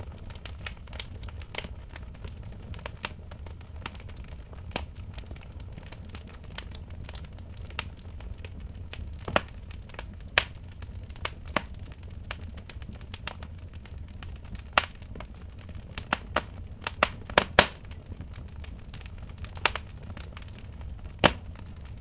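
Wood fire burning in a fireplace, crackling with irregular sharp pops, some much louder than the rest, over a steady low rumble.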